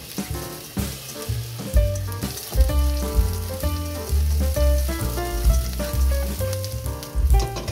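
Garlic and sliced vegetables sizzling in oil in a nonstick wok, stirred with wooden chopsticks. Background music with a strong, rhythmic bass line plays over it and is the louder part.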